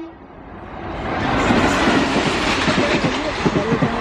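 Train passing: a rushing rail noise that builds over the first second and holds, with the wheels clattering in quick knocks over the rail joints.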